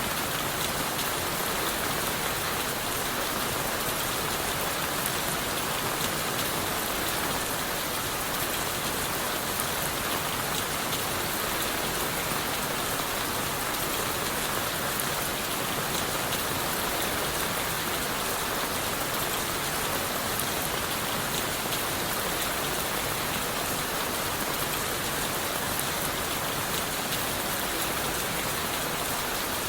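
Steady rain falling on leaves, wood and the forest floor, with an even, unchanging hiss and no distinct drops or thunder.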